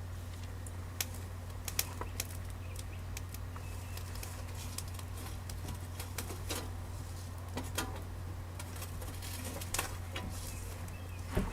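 Campfire wood crackling: scattered, irregular snaps and pops over a steady low hum.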